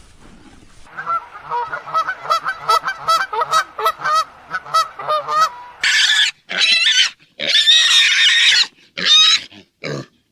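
Pigs calling: a quick run of short grunting squeaks, then loud, high squeals from about six seconds in.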